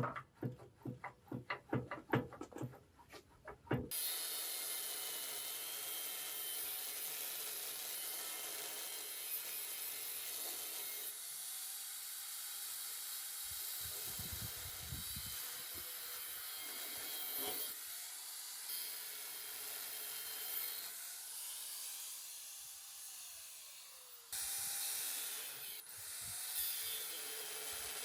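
Quick light taps and clicks for the first few seconds, then a steady scratchy rubbing noise that carries on to the end, dropping back a little twice and returning.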